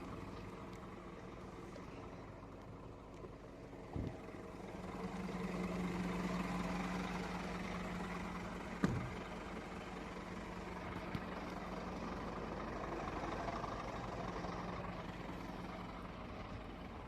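Scania truck's diesel engine running steadily, with a low steady hum that sets in about four or five seconds in. A couple of short knocks, the sharpest near the middle.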